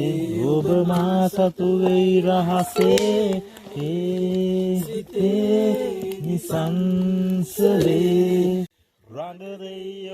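Several people singing together, holding long notes, with a brief sudden break near the end before softer singing resumes.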